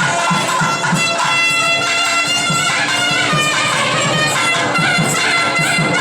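Traditional music: a reedy wind instrument plays a melody over a steady drone, with a regular drum beat underneath.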